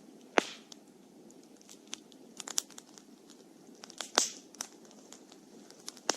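Wood fire burning: scattered sharp pops and crackles over a low steady hiss, the loudest pop about half a second in and others around four and six seconds in.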